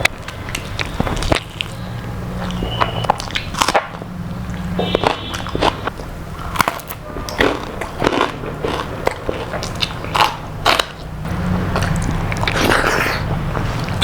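A person biting into and chewing crispy fried food, with many sharp, irregular crunches.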